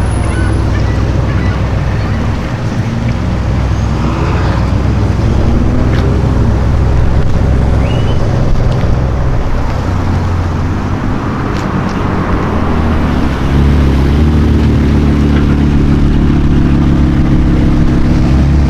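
Car engine running at low, steady revs. It gets slightly louder from about thirteen seconds in.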